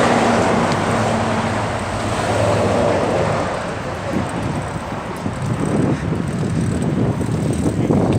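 Road traffic heard from a moving bicycle: a motor vehicle's engine hum that fades over the first couple of seconds, then rough road and wind noise on the microphone.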